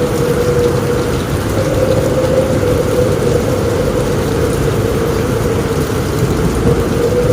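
Steady, dense rain drumming on a roof, even throughout with no distinct thunderclap, and a steady hum-like tone running through it.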